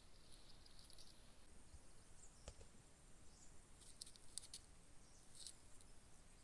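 Near silence: faint outdoor ambience with a few soft, high chirps and ticks, and a single faint click about two and a half seconds in.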